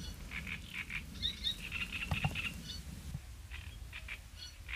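Small birds chirping, short high notes repeated in quick runs, over a steady low rumble.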